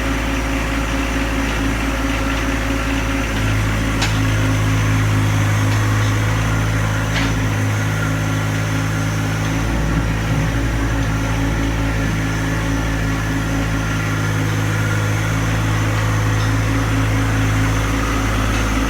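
John Deere 1025R compact tractor's three-cylinder diesel engine running at a steady speed, with a couple of faint clicks.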